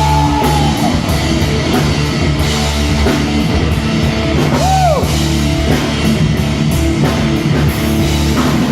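Rock band playing loudly, with distorted electric guitar and a drum kit, and a sliding note about five seconds in.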